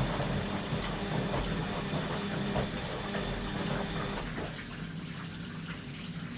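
Washing machine mid-cycle, water rushing through it with a steady hum from the machine. The hum stops about four seconds in, leaving quieter water trickling and dripping inside the drum.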